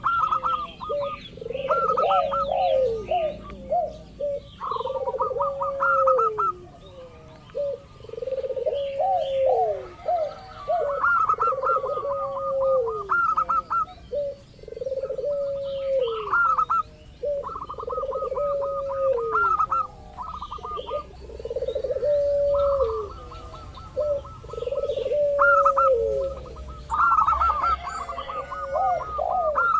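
Zebra doves (perkutut) cooing in overlapping repeated phrases, about one every two seconds. Each phrase is a run of quick high staccato notes with a lower coo that falls in pitch at its end.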